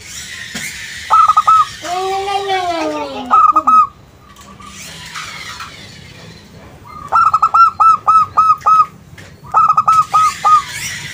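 Zebra dove (perkutut) cooing: quick runs of short, clipped notes in several bursts, the longest run about seven seconds in. About two seconds in, a longer call rises and then falls in pitch.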